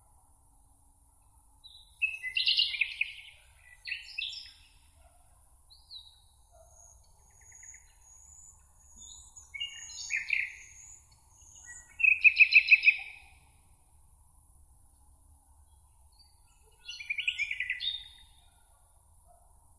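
Songbirds singing short phrases of chirps and trills, several separate bursts with pauses between. The loudest is a fast trill about twelve seconds in. A faint steady high hiss runs underneath.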